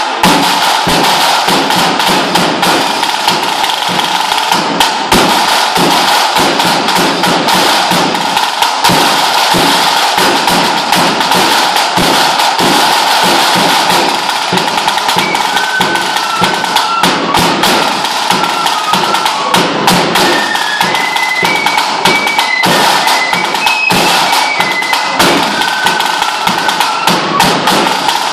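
Lambeg drum beaten hard and fast with two canes in a continuous loud rattle of strokes. From about halfway through, a high fife tune plays over the drumming.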